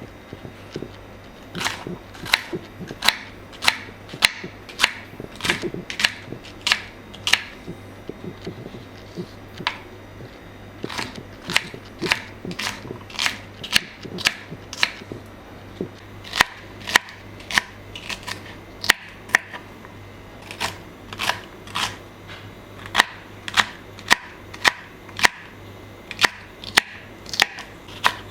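A long run of sharp, short taps, about two a second, in bursts with brief pauses, over a faint steady low hum.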